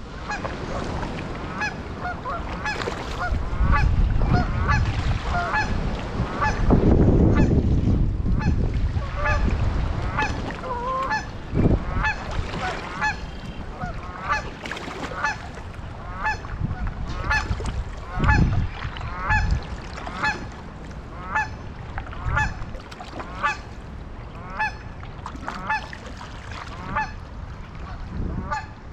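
Geese honking over and over, short calls about one to two a second, over low wind rumble on the microphone that is strongest in the first few seconds.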